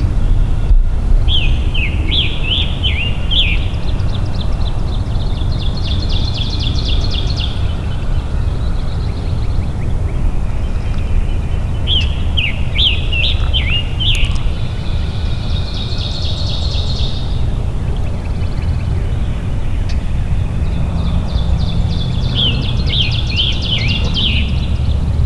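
Songbirds singing: three bursts of quick up-and-down slurred notes, about ten seconds apart, with separate buzzy trills in between, over a steady low rumble.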